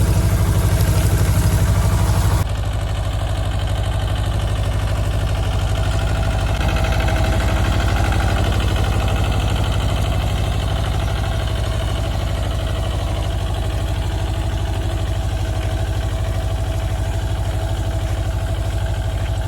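Mahindra Jivo 305 DI tractor's diesel engine running steadily. About two seconds in the sound changes abruptly and loses much of its high hiss.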